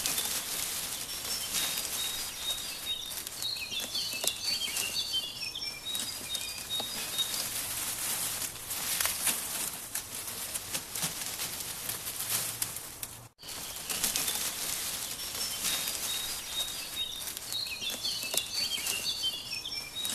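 Nature ambience: small birds chirping in quick, high twitters over a steady rushing hiss. The sound cuts out for a moment about thirteen seconds in, then starts over with the same run of chirps.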